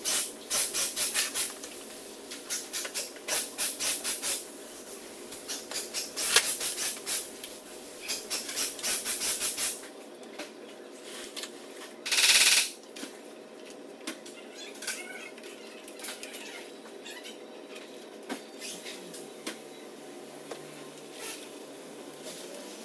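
Quick runs of sharp metallic clicks and taps, like tools being worked in a shop, for about the first ten seconds. A single short, loud burst of noise comes about halfway through, followed by occasional isolated clicks.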